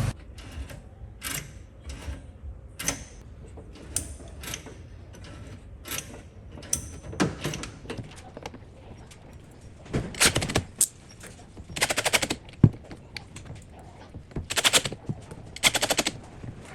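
Workshop tool work: a string of sharp knocks and clicks, with several short, rapid rattling bursts in the second half.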